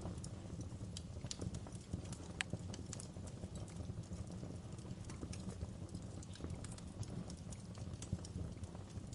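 Wood fire burning in a fireplace: irregular sharp crackles and pops of the burning logs over a steady low rumble of the flames.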